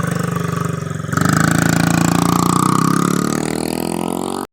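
Dirt bike engine running, then revving up and getting louder about a second in; the sound cuts off suddenly near the end.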